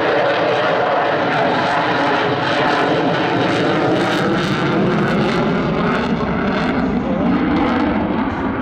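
Jet noise from a Boeing F/A-18 Super Hornet's twin General Electric F414 turbofans in flight. It is loud and steady, with a faint wavering tone under the rush of noise.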